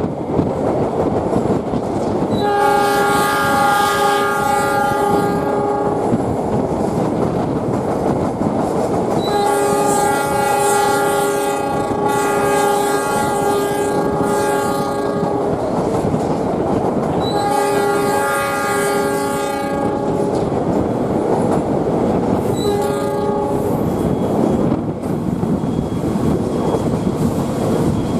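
Locomotive horn of a passenger train sounding four times, three long blasts and a short one near the end, over the steady running noise of the train on the rails.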